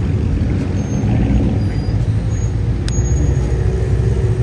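Car engines running, a steady low rumble, with one sharp click about three seconds in.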